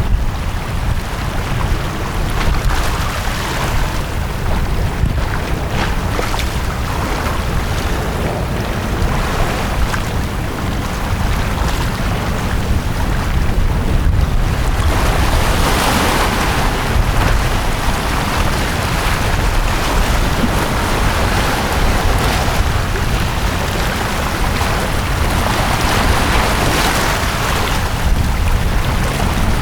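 Sea waves washing onto a beach, a steady hiss that swells louder about halfway through and again near the end, over a constant low rumble of wind on the microphone.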